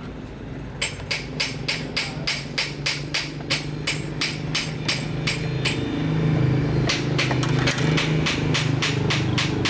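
Rapid, evenly spaced clicks, about four or five a second, over a steady motor hum that grows louder about six seconds in.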